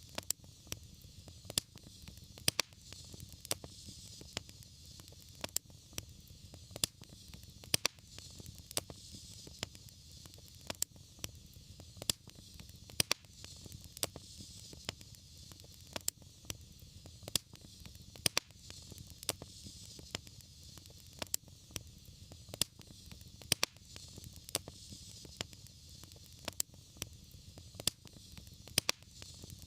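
Wood fire crackling: frequent sharp pops and snaps over a steady low rumble and soft hiss of the flames.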